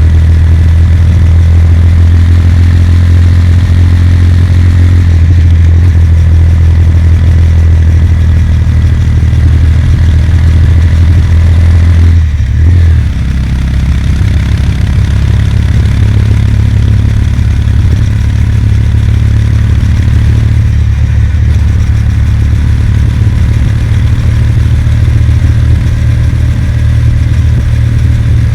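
Kawasaki W800's air-cooled parallel-twin engine running steadily as the motorcycle is ridden, heard from on board with a deep low rumble. About twelve seconds in the sound breaks briefly, then carries on a little quieter.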